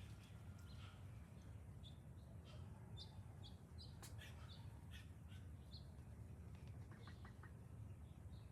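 Faint, high-pitched bird chirps: a string of short calls, most of them in the middle few seconds, over a low steady rumble.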